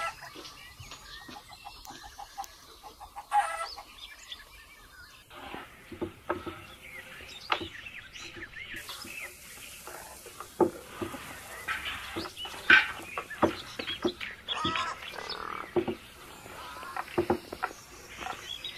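Wooden rolling pin rolling thin dough on a wooden board, making irregular knocks and clatters from about five seconds in. Birds chirp in the background.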